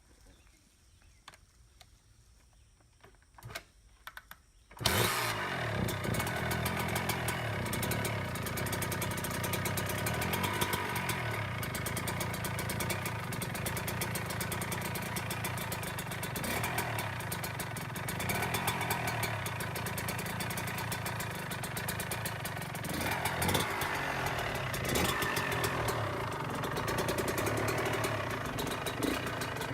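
Suzuki RM 125 two-stroke single-cylinder dirt bike engine catching about five seconds in, after a few faint clicks, then running steadily at idle. It is running again after being rebuilt from a seize-up.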